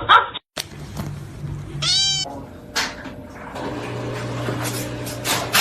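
A domestic cat meows once, a short call about two seconds in, over a faint steady low hum.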